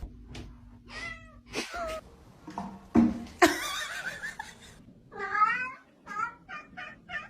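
A cat meowing: a few short meows, a longer meow about five seconds in, then a quick run of short meows near the end. Two sharp knocks about three seconds in.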